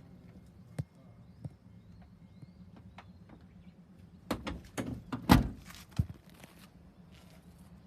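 A quick run of clunks and knocks about four to six seconds in, the loudest near the middle of the run, like a vehicle door or panel being worked, after a couple of single clicks earlier on. Faint bird chirps and a low steady hum lie underneath.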